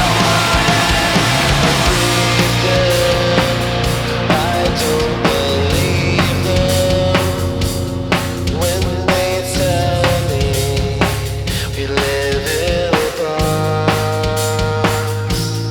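Punk rock band playing: a drum kit keeps a steady beat of bass drum and snare under long held bass notes and sustained guitar notes.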